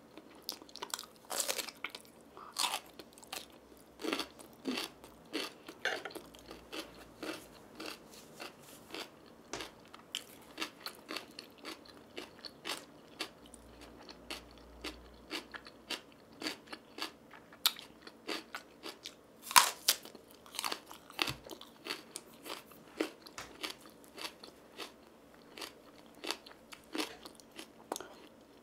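Close-miked eating: irregular crisp crunches and chewing as raw green onion and spicy fried noodles are bitten and chewed, with one especially loud crunch about two-thirds of the way through.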